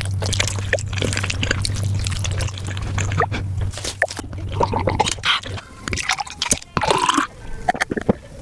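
Sped-up mukbang eating sounds: wet, sticky chewing, smacking and squishing of gelatinous spicy beef feet, played fast so they run together into a rapid clatter of clicks and squelches. A low steady hum sits under the first half, and a brief sliding sound comes near the end.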